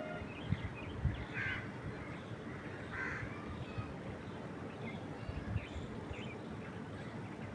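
Wild birds calling over a steady hiss of wind in the trees: scattered short chirps, and two louder, rougher calls about a second and a half apart.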